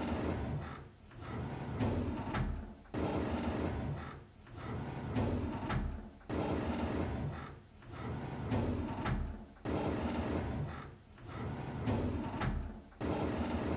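A drawer being slid open over and over, each pull a rough scraping rumble lasting about a second and a half, with a short pause before the next, about eight times.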